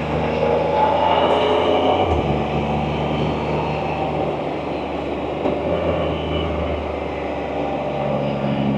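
Can-Am Spyder three-wheeled motorcycle engine running steadily under way, with wind and road noise. The engine note changes about two seconds in.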